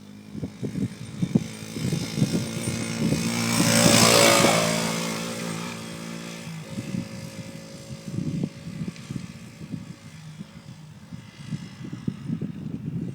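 Small dirt bike engine running and passing close by, building to its loudest about four seconds in, then fading away, with an uneven low rumble throughout.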